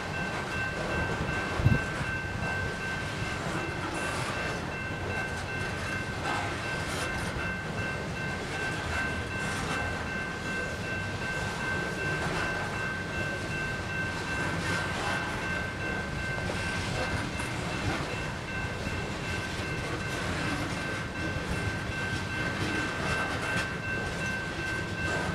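Coal train hopper cars rumbling and clacking past over the rails, with one sharp knock about two seconds in. Under it the grade crossing's GS Type 2 bell rings steadily.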